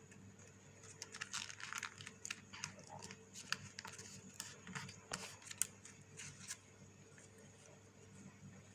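A sheet of coloured paper being handled, folded and creased by hand: faint, irregular rustles and crinkles, quieter for the last couple of seconds.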